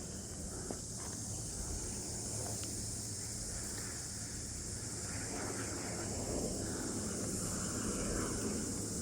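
Outdoor ambience on foot: a steady high hiss over a low rumble, with a few light footstep clicks near the start.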